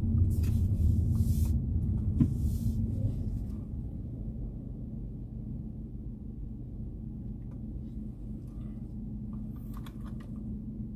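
Car cabin rumble from the engine and tyres as the car is driven slowly into a parking space, with some brief hiss early on; the rumble drops lower after about three and a half seconds as the car slows.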